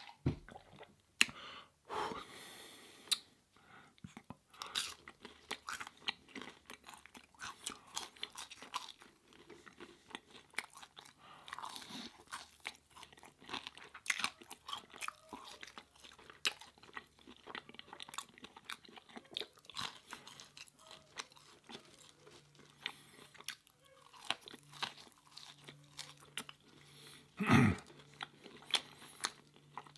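Close-miked mouth sounds of a person eating: chewing, biting and crunching with many quick wet clicks and crackles. One louder, longer sound comes near the end.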